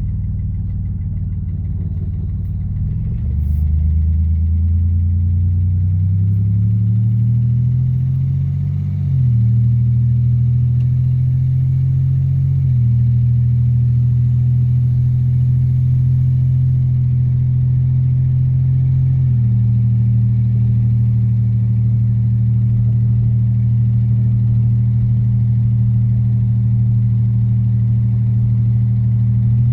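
Oldsmobile 4.3-litre V6 diesel engine pulling the car away: the engine note gets louder about three seconds in and rises for several seconds, drops sharply about nine seconds in as it shifts up, changes pitch again twice, then holds steady at cruising speed. The exhaust is a bit loud because the old exhaust system needs replacing.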